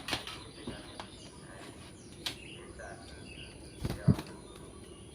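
Faint scattered bird chirps over a steady insect background, broken by a few sharp clicks and a louder knock about four seconds in.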